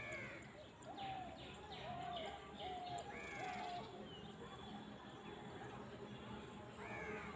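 Birds calling over a faint outdoor background: an arching call comes three times, about three seconds apart, with a quick run of short, even notes in between.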